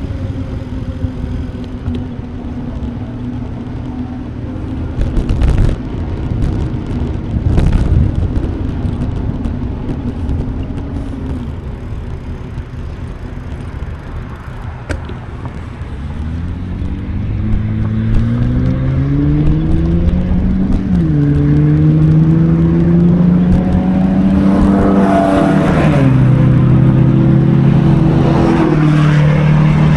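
A motor vehicle's engine accelerating through the gears, rising in pitch and dropping at a shift twice in the second half and getting louder. Before it there is a steady low hum with low rumbling gusts of wind on the microphone.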